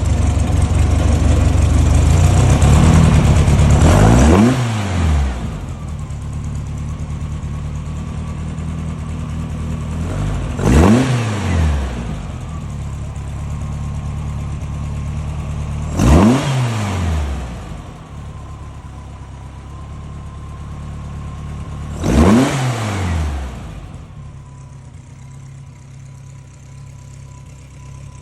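Carburetted engine of a Porsche 356 Speedster replica being revved while still warming up from a cold start: held high for about four seconds and dropping back, then blipped three times with idle in between, and settling into a steady idle near the end.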